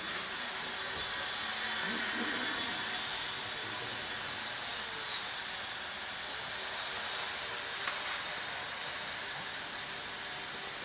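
Twin small electric motors and propellers of an indoor radio-controlled warbird model running in flight: a steady high whine that drifts slightly up and down in pitch over a constant hiss.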